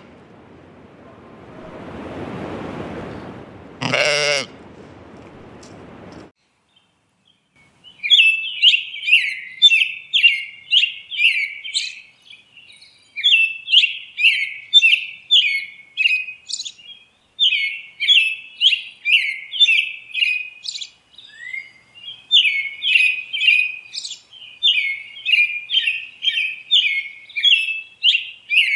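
A goat bleats once, briefly, about four seconds in, over a rough background that then cuts off. After a short silence, birds begin chirping fast and steadily, several high chirps a second, continuing to the end.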